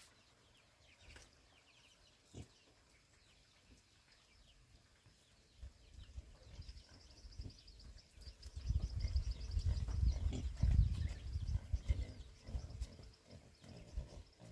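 Pigs grunting, low and irregular, mostly in the second half, over a faint high, rapidly pulsing trill.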